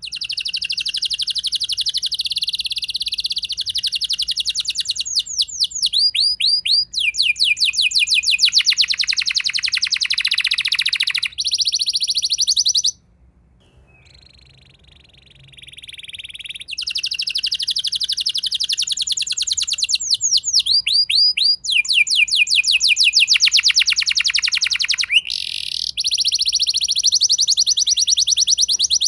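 Domestic canary singing a long rolling song of rapid trills and fast repeated sweeping notes. It breaks off for about three seconds near the middle, then starts up again.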